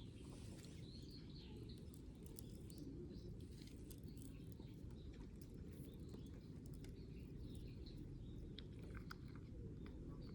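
Faint chirps of small birds over a steady low outdoor rumble, with scattered small clicks.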